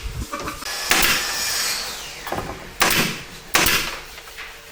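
Wood on wood during carpentry work: a drawn-out scrape about a second in that drops in pitch, then two sharp knocks.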